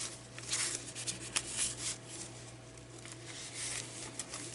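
Paper pages and tags of a handmade journal rustling as they are handled and turned, with one short sharp click about a second and a half in, over a faint steady hum.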